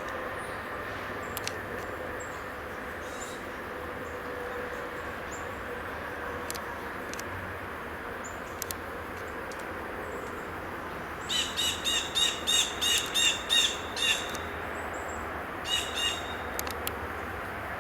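A small songbird calling: a run of about ten short nasal notes, roughly three a second, about two-thirds of the way through, then two or three more shortly after, over faint high chips and a steady background hiss.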